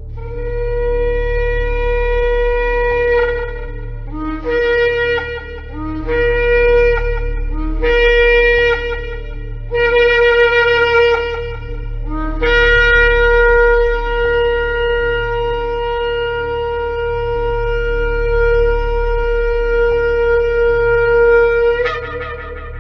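Shofar (ram's horn) blown in a sequence: one long blast, then four shorter blasts that each step up from a lower note, then a long held blast that jumps up in pitch just before it stops. A steady low hum runs underneath.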